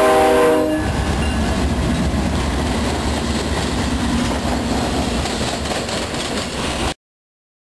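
Norfolk Southern diesel freight train passing close by: the locomotive's air horn sounds a chord that ends under a second in, then the locomotives' engines rumble and the wheels run on the rails as the trailer cars roll past. The sound cuts off abruptly near the end.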